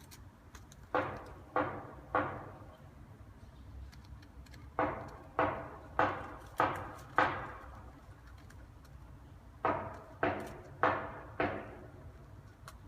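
Hollow knocking in three evenly paced runs: three knocks, then five, then four, each knock ringing briefly before it fades.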